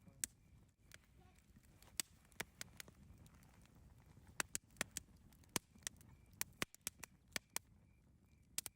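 Campfire crackling: irregular sharp pops and snaps of burning wood, a few louder than the rest, over a low steady hiss of the flames.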